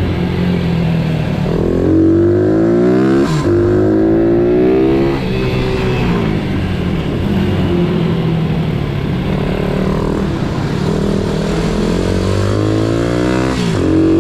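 Pit bike engine revving hard, its pitch climbing and then dropping sharply as it shifts up, about three seconds in and again near the end, with the throttle rising and falling in between.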